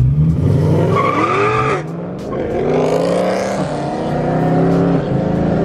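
Sports car engine accelerating hard. Its note rises through the gears, with upshifts at about two, three and a half and five seconds in.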